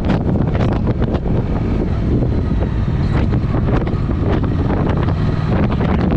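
Triumph Speed Twin motorcycle with a Vance & Hines exhaust running under way, the engine and exhaust heard steadily beneath heavy wind buffeting on the microphone.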